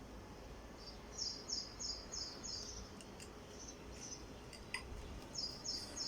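A bird calling: two runs of about five high, evenly repeated chirps, roughly three a second, with a few single chirps and one sharp click between them.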